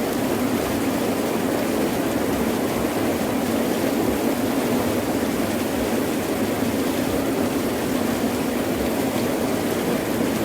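Heavy rain pouring down steadily, a dense, even wash of sound.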